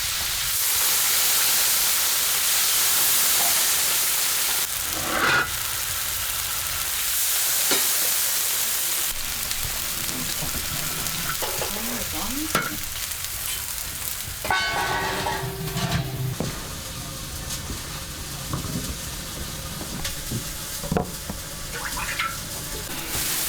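Food frying in hot oil in a pan, a steady sizzle that is loudest in the first few seconds, with a utensil stirring it and a few short sharp knocks and scrapes.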